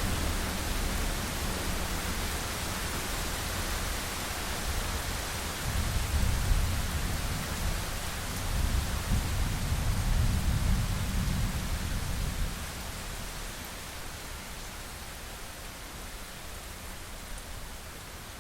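Steady rain with distant thunder rumbling in low swells through the first two-thirds, then dying away, leaving only the even hiss of the rain.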